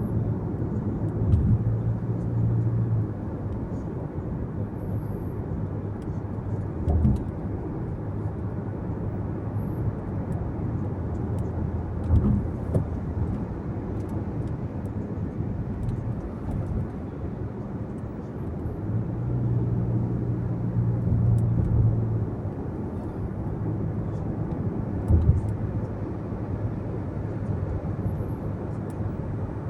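Car driving on a road: steady low tyre and engine rumble. A low hum swells twice, and a few single thumps come through, about four in all.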